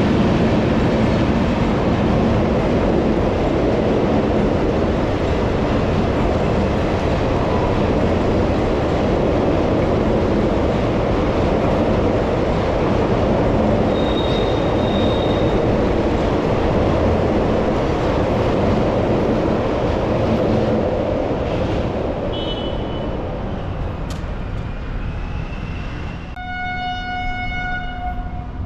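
Passing train: the coaches run over the track with a steady, loud rumble that fades over the last few seconds, then a locomotive horn sounds one steady blast near the end.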